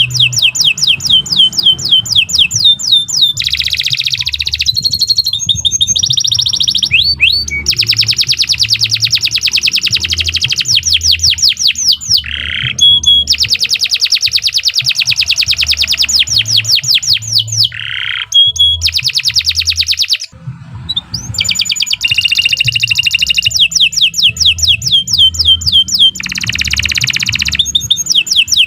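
Domestic canary singing a long song of fast, rapidly repeated trills, broken by a few short pauses.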